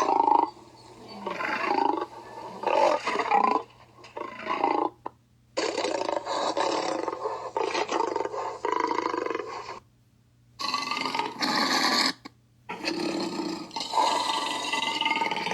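Lion roar sound effects: a string of roars and growls in separate bursts, the longest about four seconds, each cut off abruptly into a short silence.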